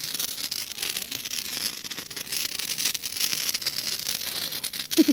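Handheld sparkler burning with a steady fizzing hiss full of fine crackles.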